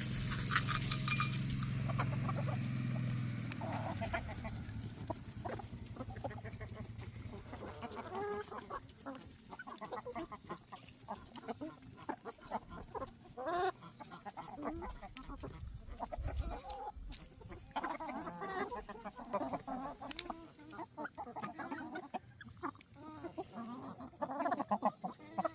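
Backyard chickens clucking, many short calls scattered throughout. A low hum and a rattle in the first few seconds.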